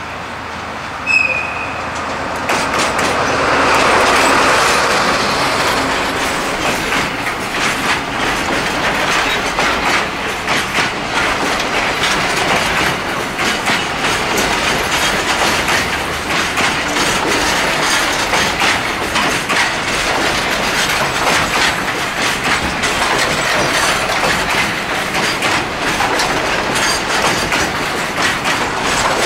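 DE65 diesel locomotive passing close by. A brief high toot sounds about a second in, and the engine is loudest a few seconds in. A long train of container flat wagons then rolls past, the wheels clattering steadily over the rail joints.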